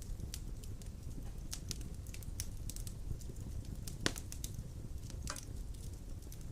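Fire burning in a fireplace: a steady low rumble of the flames with scattered sharp crackles and pops, the loudest pop about four seconds in.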